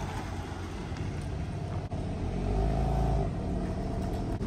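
2022 BMW M3 Competition's S58 twin-turbo inline-six running as the car rolls slowly at low speed. It makes a steady low rumble that swells a little louder about halfway through.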